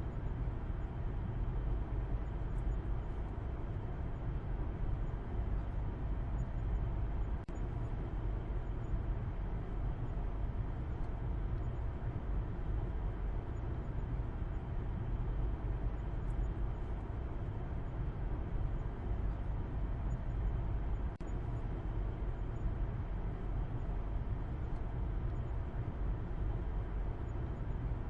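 A car driving: a steady, deep rumble of road and engine noise, with two faint ticks, one about seven seconds in and one about twenty-one seconds in.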